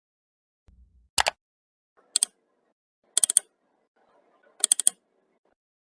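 Computer mouse clicks: four quick groups about a second apart, the later groups with three or four rapid clicks each.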